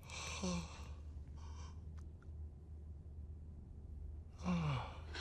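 Two breathy sighs, each falling in pitch, one at the start and one near the end, over a low steady hum.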